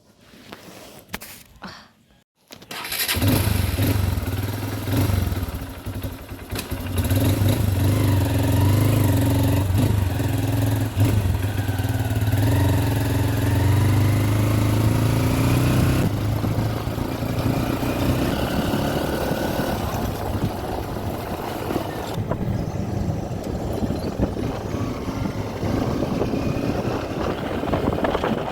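A few light clicks, then a motorcycle engine starts about two and a half seconds in and keeps running steadily, its note shifting a couple of times later on.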